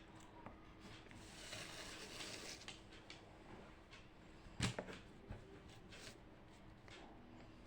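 Quiet room tone with a soft rustle for about a second and a half, a few light clicks, and one sharp knock about four and a half seconds in.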